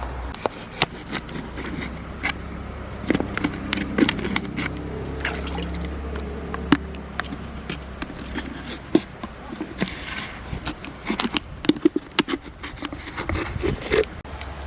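Irregular sharp clicks and taps with wet, dripping water sounds, most frequent near the end: wet clam shells and their contents being handled.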